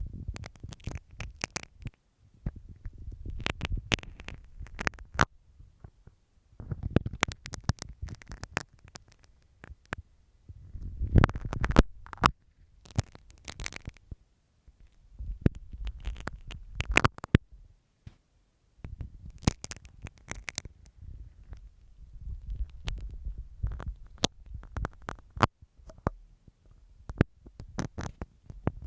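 Sewing pin scratching and tapping on masking tape close to the microphone, with crackly scratches and a low rumble. The sound comes in bursts of a couple of seconds with short pauses between.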